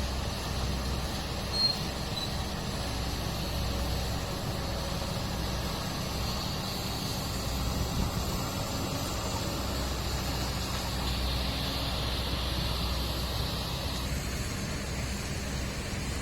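Heavy dump truck's diesel engine running steadily with a low rumble, with one brief high squeak about a second and a half in.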